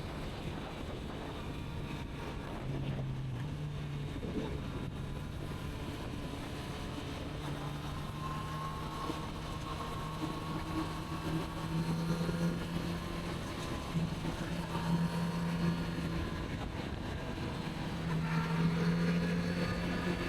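Kawasaki Z900RS inline-four engine running under way, its pitch dipping briefly about three seconds in and climbing again later, with wind noise on the microphone.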